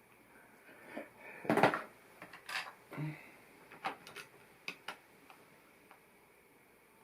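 LEGO pieces being handled and pressed together: a string of small hard-plastic clicks and clatters, the loudest a short rattle about a second and a half in.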